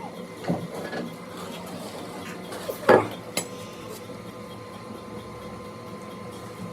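A few sharp metallic clanks and knocks from metal parts or tools being handled, the loudest about three seconds in with a lighter one just after, over a steady low workshop background.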